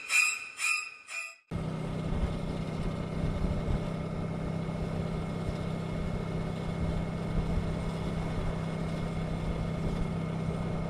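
A repeating electronic beeping, about two a second, cuts off abruptly about a second and a half in. It gives way to a Honda ST1100 Pan European's V4 engine running at a steady cruise, with steady wind and road noise.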